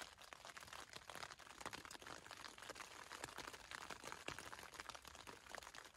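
Light rain pattering on a tent's flysheet, heard from inside the tent: a faint, irregular run of small taps.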